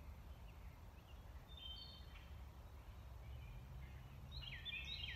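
Wild songbirds calling in woodland: a few short whistled notes about two seconds in, then a quick cluster of chirps near the end, over a low steady rumble of wind on the microphone.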